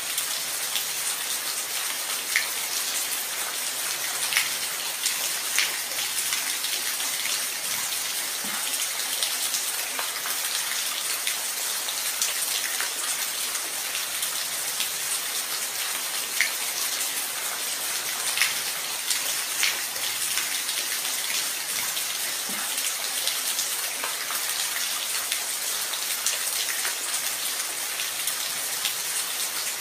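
Steady rain falling, a constant hiss with individual drops ticking sharply now and then.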